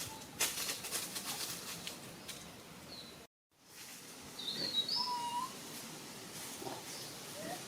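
Crackling and rustling for the first couple of seconds, then, after a brief dropout, a few short high chirping calls about five seconds in.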